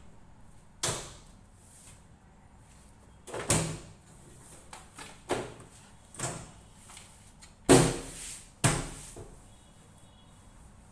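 Sharp clacks and knocks of a washing machine's front panel being fitted into place on the cabinet, its plastic locking clips snapping in. About half a dozen hits come a second or two apart, the loudest about three quarters of the way in.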